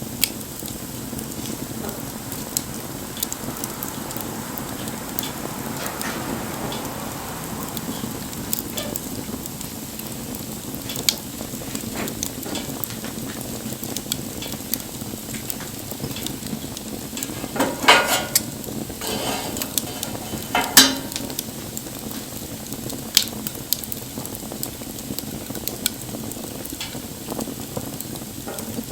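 Wood bonfire burning: a steady hiss with scattered sharp crackles and pops, and a few louder bursts of crackling about 18 and 21 seconds in.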